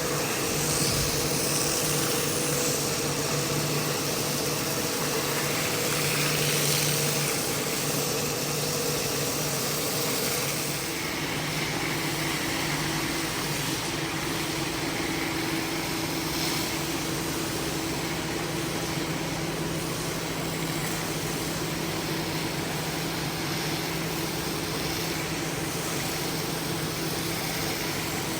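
A motor-driven carpet-cleaning machine running steadily, a hum under a constant hiss. Its hum changes pitch about eleven seconds in.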